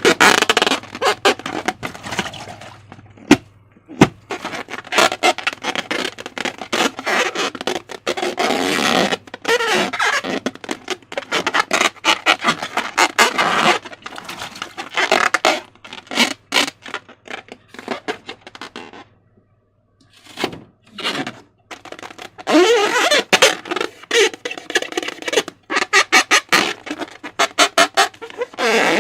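Slime being squeezed and worked by hand, with dense wet squelching, crackling and popping clicks and some squeaky rubbing of balloon rubber. There is a short pause about two-thirds of the way through.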